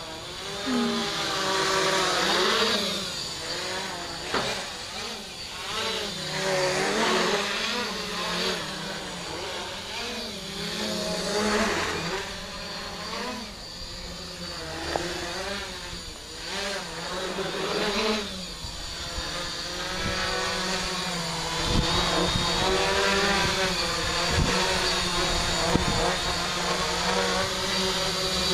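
A tricopter's electric motors and propellers whining in flight, the pitch wavering up and down constantly as the throttle is worked. From about two-thirds of the way in, gusts of wind rumble on the microphone under the motor sound.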